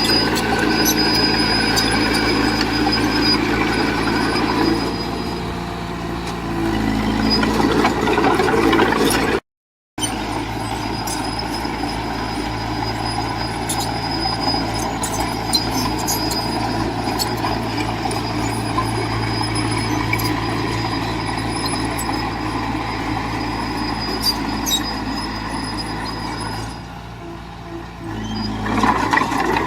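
Heavy diesel engine of earthmoving machinery running steadily, with scattered sharp metallic clanks. It revs up around seven seconds in and again near the end, and the sound cuts out completely for about half a second near ten seconds in.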